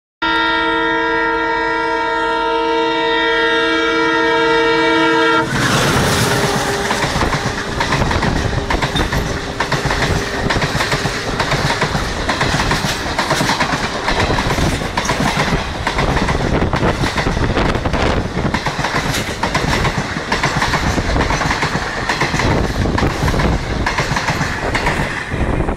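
An Indian Railways express train's horn sounds one long, steady chord of several tones for about five seconds. Then the train rushes past close by, its coach wheels clattering rapidly over the rails, until the noise drops away near the end.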